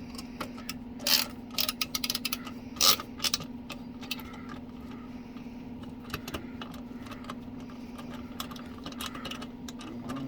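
Irregular metallic clicks and clanks of hand tools and hardware as parts of a sewing machine table are unscrewed, busiest in the first few seconds and sparser after, over a steady low hum.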